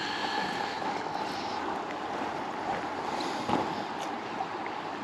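Steady rush of flowing river water, with one soft knock about three and a half seconds in.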